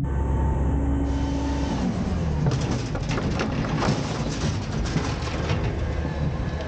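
Autocar garbage truck's engine running under load with a steady hydraulic whine that drops away about two seconds in, followed by a run of clattering knocks as a bin is dumped into the Heil half pack body.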